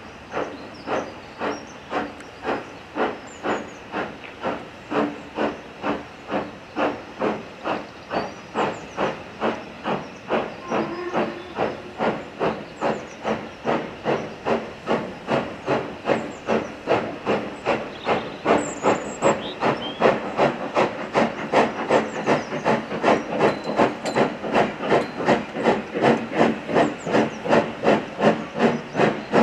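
Steam locomotive working hard, its chimney exhaust beating out a steady rhythm of chuffs that quickens from under two to about two and a half a second and grows louder as the engine gathers speed or comes nearer.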